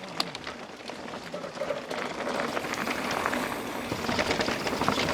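A mountain bike rolling off down a dirt trail: tyre noise with many small clicks and rattles, growing louder as it picks up speed.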